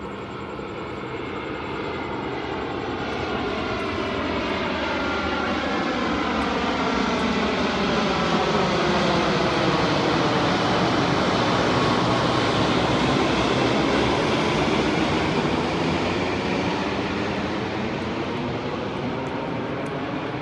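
Boeing 787-9 airliner on final approach passing overhead, its Rolls-Royce Trent 1000 turbofans at low approach power. The engine noise swells to a peak about halfway through and then fades, with a whine that slides lower as the plane goes by.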